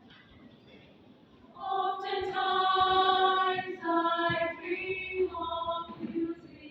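A choir singing, coming in about a second and a half in with long held notes that move to a new pitch every second or so.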